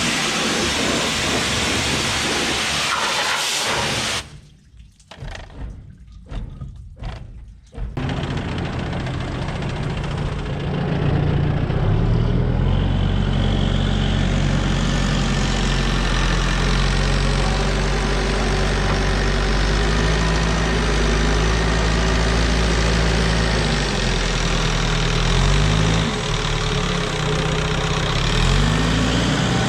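A vehicle engine running, probably a tractor's. It picks up speed about twelve seconds in, then runs steadily with two brief revs near the end. Before it comes a few seconds of steady noise, then a short, much quieter gap.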